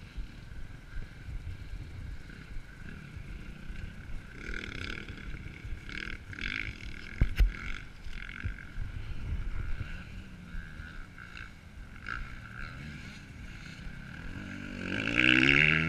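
Motocross bikes running at a distance, their engine note rising and falling in several surges as riders accelerate around the track. The sound gets louder near the end.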